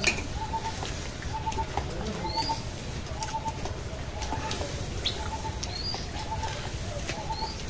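Birds calling: a short call repeated roughly once a second, with a higher upswept chirp every second or two.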